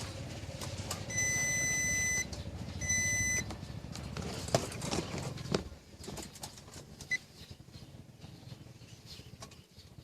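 Two electronic beeps, one about a second long and a shorter one just after, over a low hum, followed by a few light clicks and knocks.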